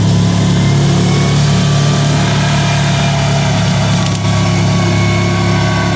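Kawasaki Teryx side-by-side's V-twin engine running steadily, a constant low engine drone.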